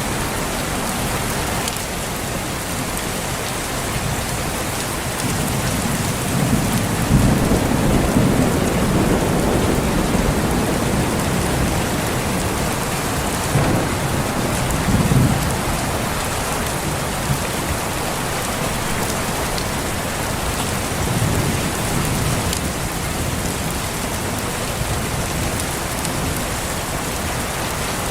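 Steady heavy rain falling, with rumbles of thunder that swell from about six seconds in, crest again about fifteen seconds in, and come back more faintly later.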